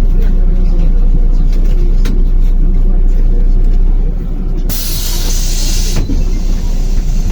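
MAZ-105 city bus running with a steady low engine rumble, heard from inside the cabin; about five seconds in, a loud hiss of compressed air from the pneumatic system lasts about a second.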